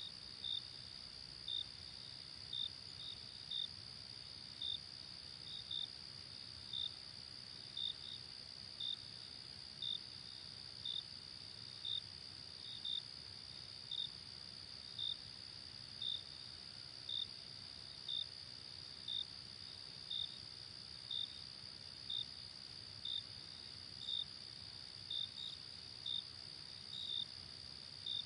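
Crickets at night: a steady high-pitched trill with short chirps repeating about once a second, sometimes in quick pairs.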